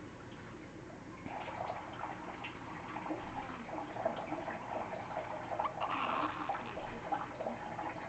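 Young hawk-headed parrot making soft, busy chattering and grumbling sounds, starting about a second in and running on as a stream of short bits.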